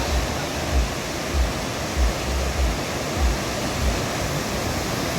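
Swollen Chenab river rushing in spate after heavy rain: a steady, loud rush of fast-flowing water. Dull low thumps recur about every two-thirds of a second.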